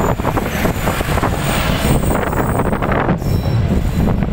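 Karachi Circular Railway passenger coaches rolling past at close range and pulling away, their steel wheels running loudly and steadily on the rails.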